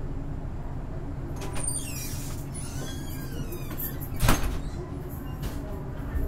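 Vietnam Railways SE19 passenger train running, heard from on board: a steady low rumble of the wheels on the track, with high squeals from about one and a half to three seconds in and one sharp knock a little after four seconds.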